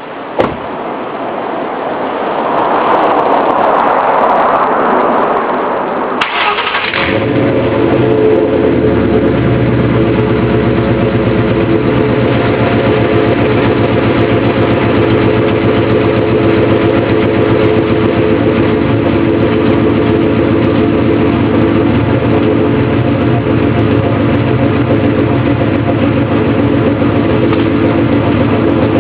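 A 2000 Ford Mustang GT's 4.6-litre V8 with BBK long-tube headers and open exhaust cutouts starting: a click, about six seconds of starter cranking, then the engine catches and settles into a steady idle.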